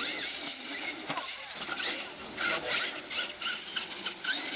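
Radio-controlled monster truck running on a dirt course, with short electric-motor whines rising and falling as the throttle comes on and off and tyres scrabbling on dirt.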